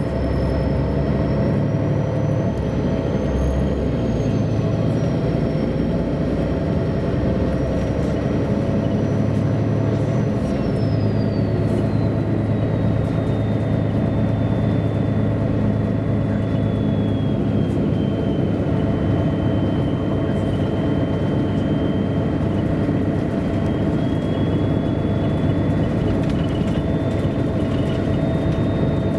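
MAN A23 NG313 articulated city bus driving, heard from inside: diesel engine and drivetrain running with a steady low rumble and a high whine that climbs over the first few seconds, then drops about ten seconds in and stays lower.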